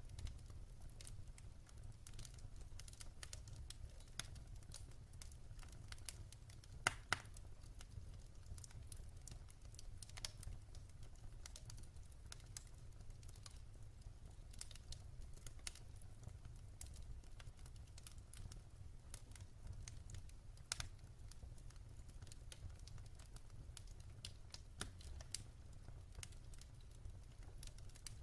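Wood fire crackling: scattered sharp pops and ticks over a steady low rumble, with a louder pair of pops about seven seconds in.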